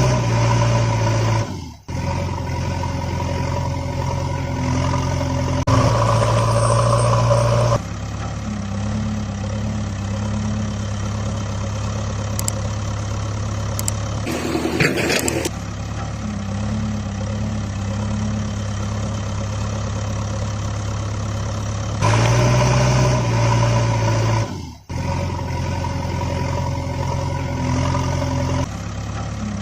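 Engine running steadily at idle, in segments that switch abruptly, with two sudden brief dropouts, about two seconds in and about 25 seconds in. A short noisy burst comes near the middle.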